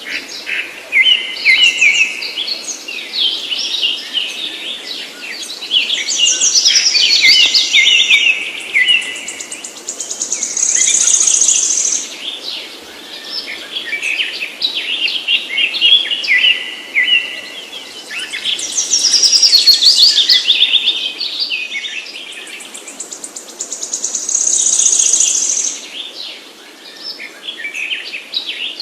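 A songbird singing long, fast phrases of chirps and trills, several of them ending in a held high trill, repeated again and again.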